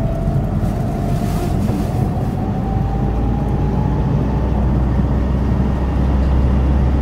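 Car running along a mountain road, heard from inside the cabin: a steady low engine and road rumble that deepens and grows a few seconds in, with a faint whine rising slowly in pitch.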